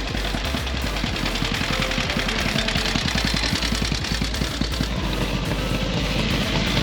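Veteran pre-1919 motorcycle engine running on the road, its firing strokes coming as a fast, even string of exhaust beats.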